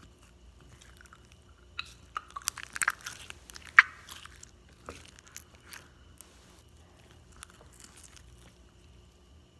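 Freshly made slime being handled and stretched, giving wet, sticky crackles and pops. They come thickest about two to four seconds in, then thin out to scattered small clicks.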